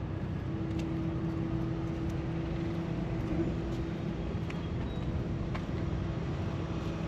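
Steady low rumble of a running vehicle, with a constant droning hum and a few faint clicks.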